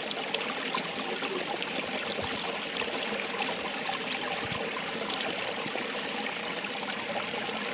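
Running water in a small stream, a steady rush with fine splashing and trickling.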